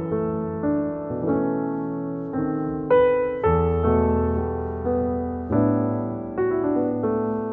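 Background piano music: gentle chords and melody notes struck about every half second to second, each fading away after it is played.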